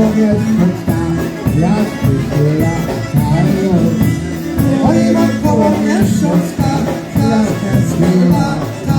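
Polka band playing live, a dense, steady-beat polka with no vocal line prominent.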